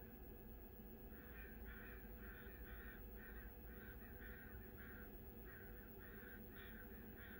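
Faint bird calls: a long run of short calls, about two to three a second, starting about a second in, over a low steady rumble.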